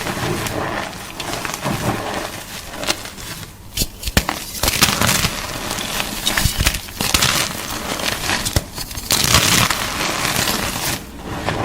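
Close-up crunching of gym chalk: irregular crackly crunches and sharp snaps, coming in denser bursts in the second half.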